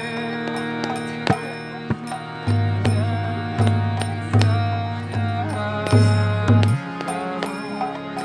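Kirtan music: held chord tones under a singing voice, with sharp hand-drum strokes. From about two and a half seconds in, deep bass drum strokes repeat a little faster than once a second, then drop out shortly before the end.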